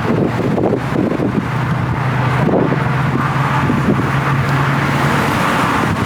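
Street traffic: a motor vehicle's engine hums steadily from about a second in until about five seconds, over continuous road noise.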